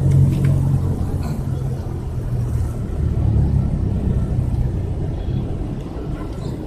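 An engine running with a steady low hum that eases slightly after about three seconds.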